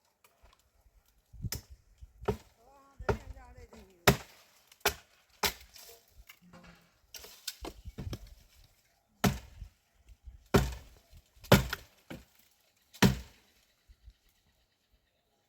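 About a dozen sharp knocks and cracks of hard objects struck together, irregularly spaced half a second to a second and a half apart, the strongest near the middle and toward the end.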